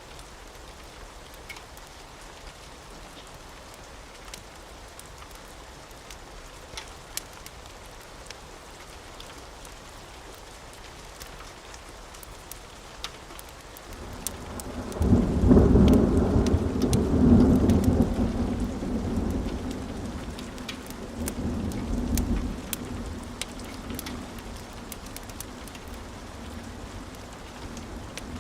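Steady rain with scattered sharp ticks, then a long rumble of thunder that comes in about halfway through, swells loudest a couple of seconds later, rolls on with a second swell and slowly fades back under the rain.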